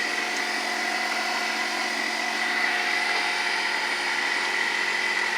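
A steady machine hum with a constant high whining tone over a hiss, unchanging throughout.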